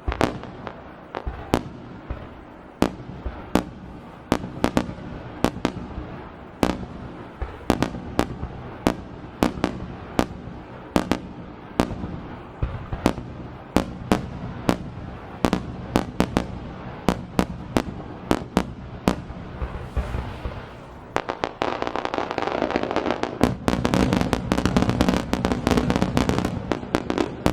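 Aerial fireworks shells bursting in quick succession, sharp reports about two a second. About three-quarters of the way through, a denser barrage builds, with a continuous rumble and crackle under the bangs, and it grows louder toward the end.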